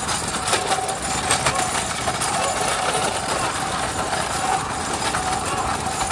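A two-wheeler's small engine running steadily at low speed, mixed with the rattle and clatter of a bullock cart's wooden spoked wheels and the bull's hooves on the road.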